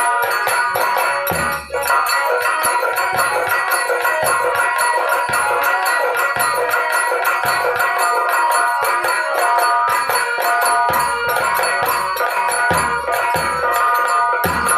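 Instrumental Indian folk dance music: regular drum strokes under fast, continuous jingling metal percussion, with a sustained melodic instrument playing over them.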